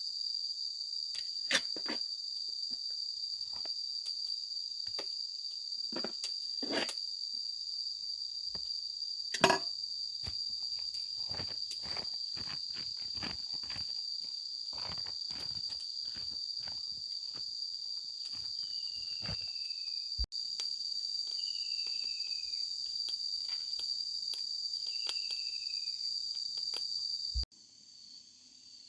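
Steady high-pitched insect chorus, with scattered knocks and clicks of handling. A short descending call comes three times in the second half.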